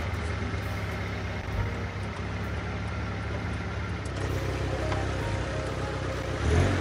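Small hatchback's engine running at low revs as the car creeps forward into a tight parking spot, getting louder briefly near the end.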